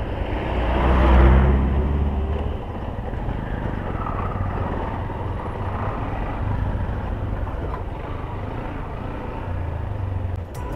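Honda CB Hornet 160R motorcycle's single-cylinder engine running while riding on a rough road, with a steady low hum and road rumble. The noise swells louder about a second in, then settles.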